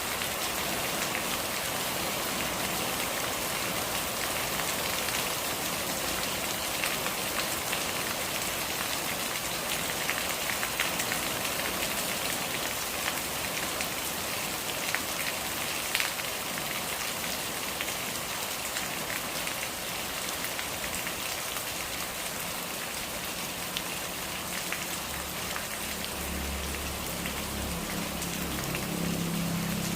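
Steady rain falling on surfaces, with scattered close drops ticking. A low hum joins in the last few seconds.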